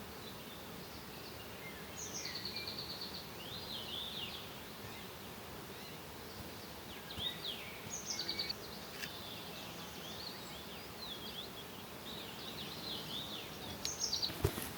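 A songbird singing three phrases of rapid high trills and chirps, about five seconds apart, over a steady faint outdoor hiss. A single sharp knock comes near the end.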